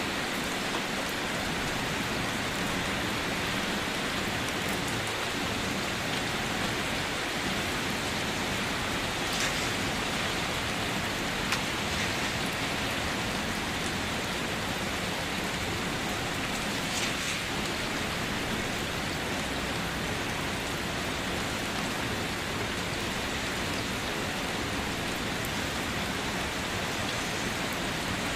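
Steady rain falling, a continuous even hiss with a few sharper drop hits now and then.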